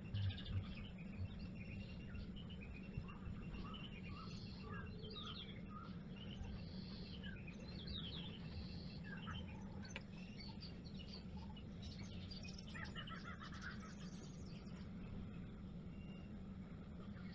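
Wild birds chirping and calling, many short, quick chirps and pitch-sliding notes scattered throughout, over a steady low hum. A couple of soft knocks come in the first second.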